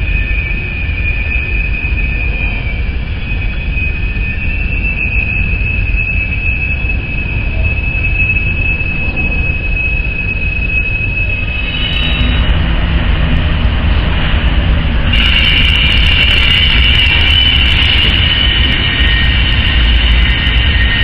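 Freight train rolling past with its wheels squealing on the rails: a steady high squeal over a low rumble, which grows louder and harsher about halfway through and again a few seconds later.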